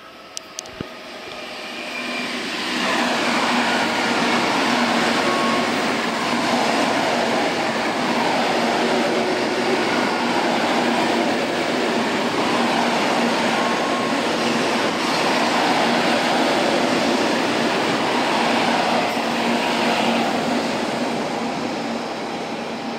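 N700-series Shinkansen train running past on the line. The rolling and running noise builds over the first few seconds, holds steady while the long set of cars goes by, and eases off near the end.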